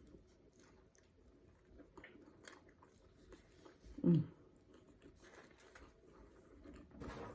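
Close-miked chewing of a hot sausage in a bun: faint, scattered wet mouth clicks and smacks. There is a brief falling voiced sound about four seconds in and a short louder rustle near the end.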